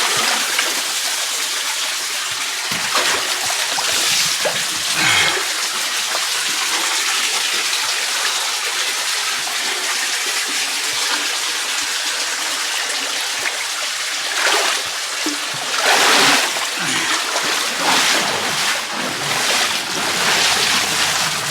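Creek water running steadily through a slot canyon, with irregular splashes every few seconds from someone wading through it.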